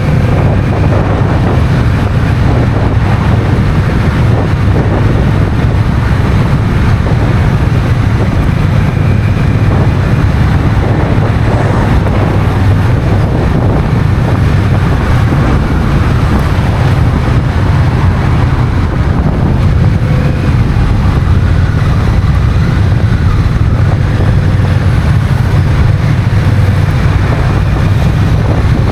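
Wind rushing over a motorcycle-mounted action camera's microphone while a Honda CMX1100 Rebel is ridden, with its parallel-twin engine running underneath. The sound is loud and steady, heaviest in the low rumble.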